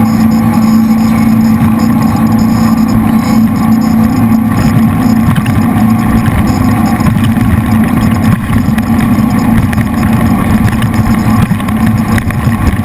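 A jet boat's V8 engines running loudly and steadily.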